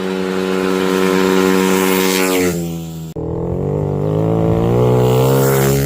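Apollo RZ dirt bike engine running hard at high revs, holding a steady pitch and then dropping about two and a half seconds in. After a sudden break near three seconds it comes back lower and climbs slowly, easing off near the end.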